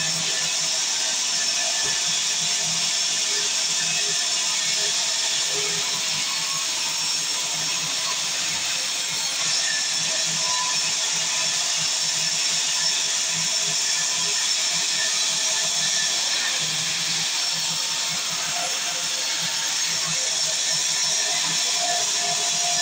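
Sawmill saw cutting through mahogany, a steady high-pitched machine noise that runs on without a break.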